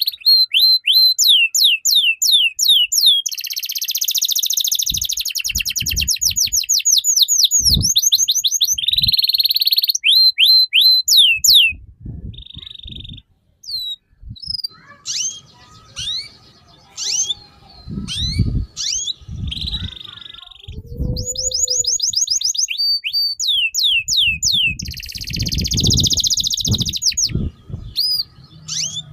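A songbird singing a loud, fast chattering song: rapid runs of descending whistled notes and buzzy trills with short pauses, the lively non-stop kind of song used as a 'pemancing' to set other birds singing. Low knocks sound under the song at times.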